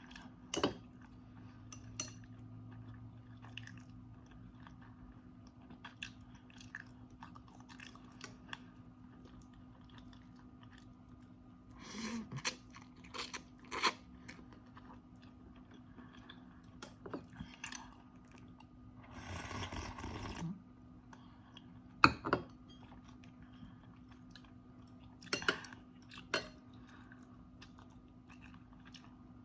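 A person eating instant noodles close to the microphone: irregular chewing and crunching with light clicks, and a longer noisy stretch about two-thirds of the way through.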